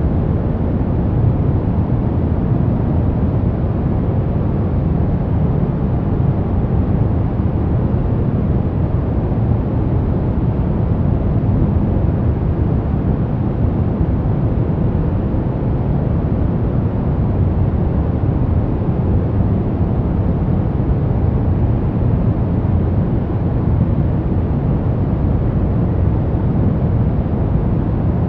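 Sleep white noise: a steady, unchanging rush of noise weighted toward the low end, deep rather than hissy, with no events or changes.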